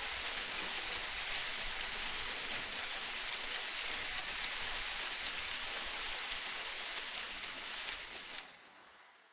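Steady rain-like hiss of water with a dense, fine patter. It drops away suddenly about eight and a half seconds in, leaving a fading trace.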